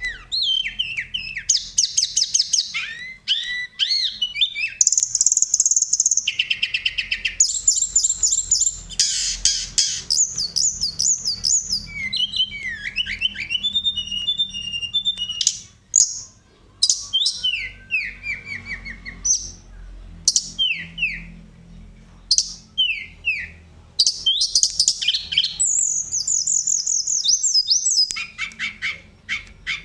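Tledekan songbird singing a long, varied song: fast rolling trills alternating with runs of clear, descending whistled notes.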